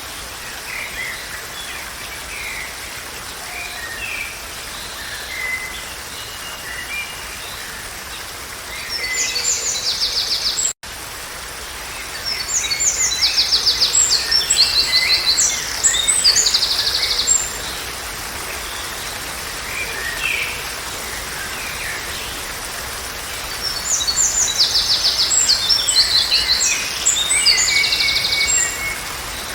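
Songbirds singing over a steady background hiss. Scattered chirps run throughout, and there are three louder bouts of fast trilled song: one about a third of the way in, a longer one in the middle, and one near the end. The sound cuts out for an instant shortly before the middle bout.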